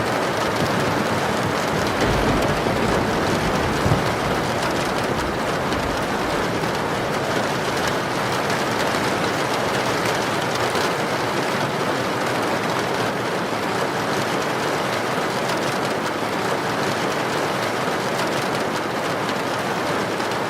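Heavy rain pouring steadily in an even hiss, with a low rumble during the first few seconds.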